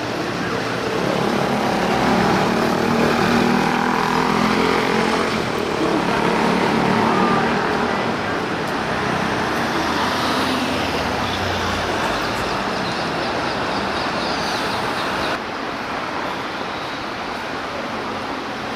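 Motor vehicles driving past amid steady road-traffic noise, with engine sound swelling and easing over the first several seconds. The sound drops suddenly about three-quarters of the way through.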